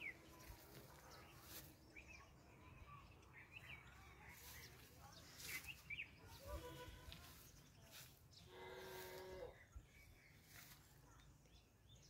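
Quiet rural outdoor ambience with scattered short bird chirps, and one longer pitched call lasting about a second, about nine seconds in.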